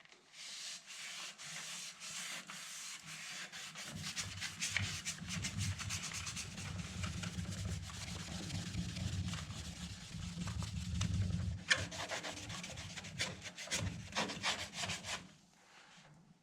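A wet sponge loaded with wood ash scrubbing the sooty glass door of a wood stove, rubbed in many short back-and-forth strokes. The rubbing stops about a second before the end.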